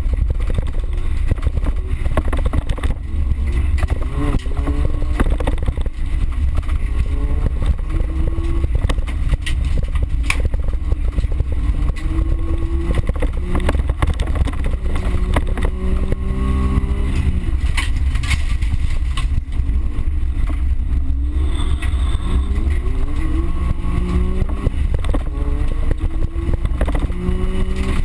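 Small car's engine heard from inside the cabin while racing on dirt, revving up and dropping back several times with gear changes, over a heavy low rumble with scattered knocks and rattles from the rough ground.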